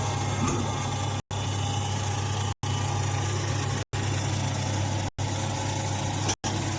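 Mini hay baler machine running with a steady, low mechanical hum, broken by short silent gaps about every second and a quarter.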